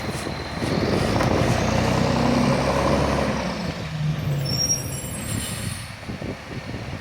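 Garbage truck's diesel engine running, growing louder and then fading, with a brief high squeal about four and a half seconds in.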